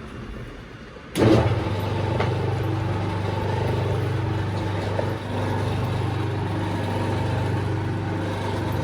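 An engine starts suddenly about a second in and then runs steadily at a constant speed.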